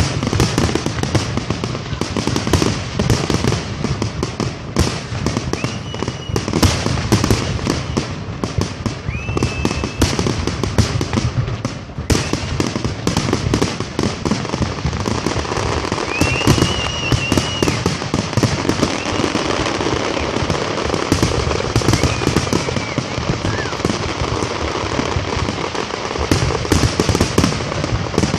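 Aerial fireworks display at full intensity: a continuous rapid barrage of shell bursts and crackle, one bang hard on another with no pause.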